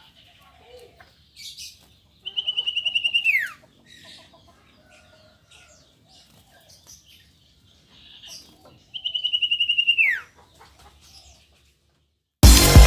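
A bird gives two loud, rapid trills, each about a second long and ending in a sharp falling note, some six seconds apart, with faint chirps between. Loud electronic music cuts in right at the end.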